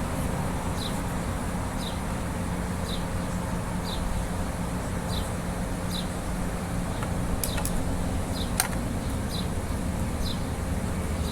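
A steady low machine hum, with short high chirps repeating about twice a second and a few sharp clicks near the end.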